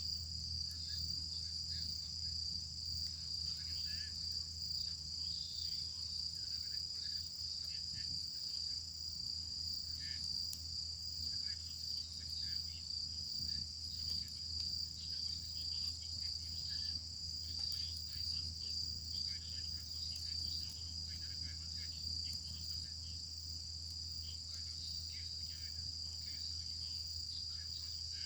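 Night insects, likely crickets, chirring in a steady high-pitched chorus, with faint, irregular crackles from a campfire and a steady low hum underneath.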